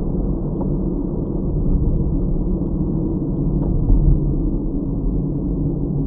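Steady low rumble of a car's road and engine noise heard inside the cabin, with faint ticks about every two-thirds of a second.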